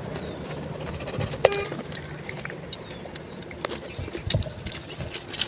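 Eating sounds: chewing and lip-smacking, with irregular small clicks of fingers picking at rice and pork. There is a short high squeak about a second and a half in.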